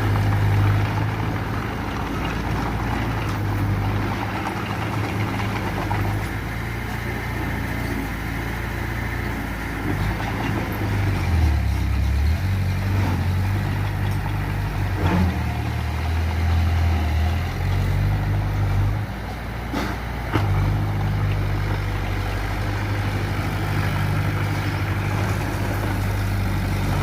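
Diesel engine of earthmoving machinery running steadily, its pitch rising and falling as it works under load, with a few faint knocks.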